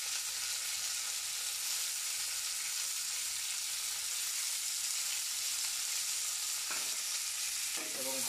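Browned onion pieces and tomato chunks sizzling steadily in hot oil in a frying pan.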